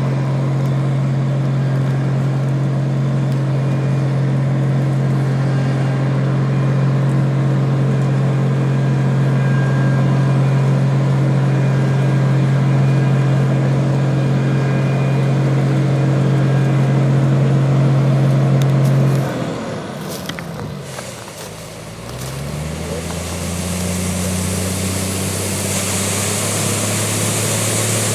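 Combine harvester's diesel engine running steadily at working speed. About two-thirds of the way through, the engine note falls away and fades, then a new engine note rises and settles into another steady hum.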